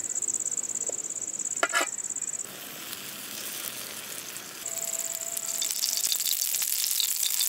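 Paniyaram frying in ghee in a paniyaram pan, sizzling, with a dense crackle of small pops in the later part. A couple of sharp clicks come just under two seconds in. Over this runs an insect's steady high trill, which drops out for a couple of seconds and then returns.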